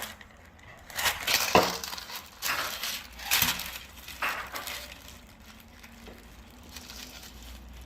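Kitchen handling sounds: several clinks and knocks of glass or dishware mixed with rustling, spread over the first four or five seconds, then fainter handling.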